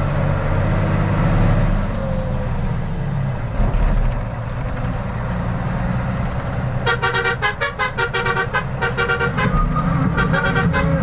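Truck engine running low and steady while driving, with a vehicle horn sounding in a rapid run of pulsing toots about two-thirds of the way in and again briefly near the end.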